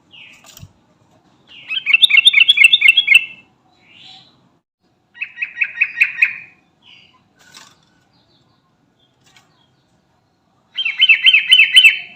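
Yellow-vented bulbul singing. It gives three bursts of quick, bubbling warbled notes about four seconds apart, with short soft calls in between.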